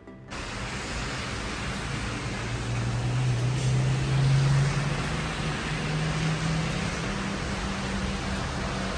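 Street ambience: a steady hiss with a low vehicle engine hum that swells about three to five seconds in, as a car passes.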